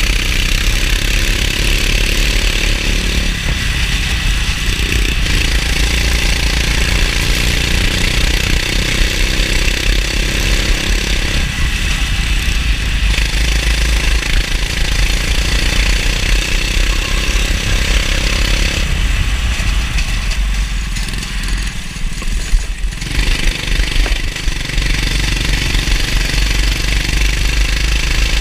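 Go-kart engine running under throttle, its pitch dropping and picking back up several times as the driver lifts off and accelerates through corners, over a steady hiss.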